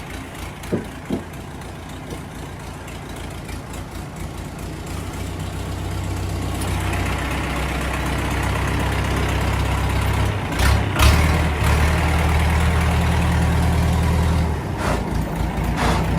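Old diesel farm tractor engine running. It picks up speed and gets louder about a third of the way in, holds steady, then drops back near the end. There are a couple of short knocks near the start and a brief noisy burst about two-thirds through.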